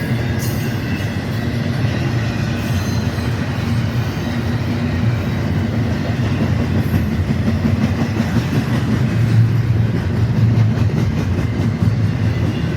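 Freight train cars rolling past close by on the rails, a loud, steady sound that runs without a break.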